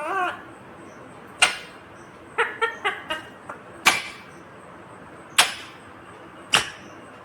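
Indian ringneck parakeet giving sharp, short squawks about every second or two, with a quick run of smaller chirps partway through.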